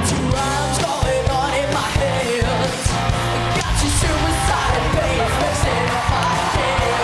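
Fast rock song with a steady drum beat and electric guitar, and a boy singing the lead line over it.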